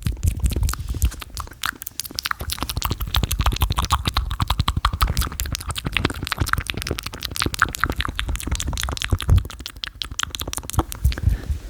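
Fast ASMR mouth and hand sounds close to the microphone: a dense, unbroken run of quick clicks and smacks, with low thumps underneath.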